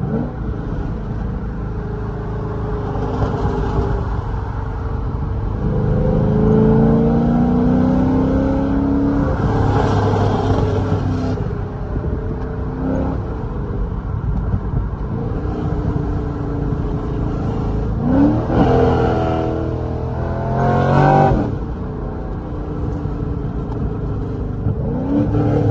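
2006 Corvette C6's 6.0-litre LS2 V8 through catless headers and a cat-back exhaust, driven on the street. The engine note climbs hard about six seconds in and holds for a few seconds, then the revs rise and drop quickly twice in the last third and climb again near the end.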